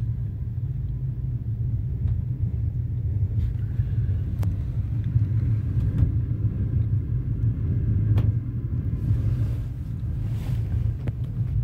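Steady low rumble of a moving passenger train heard from inside the carriage, with a few sharp clicks now and then.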